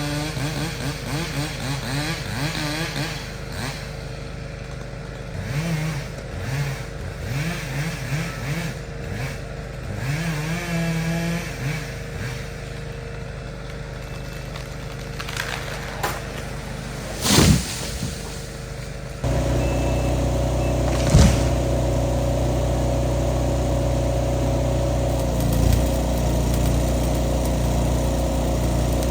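Skid steer engine revving up and down repeatedly. About two-thirds of the way in it jumps abruptly to a louder, steady high-rpm run, with two brief loud bangs around the change.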